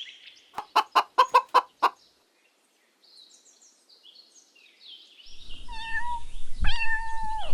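A hen clucking in a quick run of about eight short clucks, then a pause. After that a kitten meows twice, in drawn-out, even-pitched meows over background noise.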